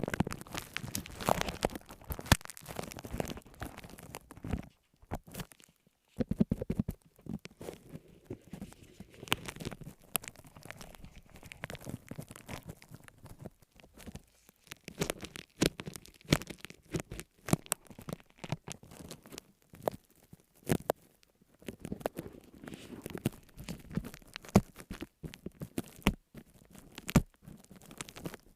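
Close-miked ASMR trigger sounds: irregular crinkling, tearing and sharp clicking of objects being handled, with a brief pause about five seconds in.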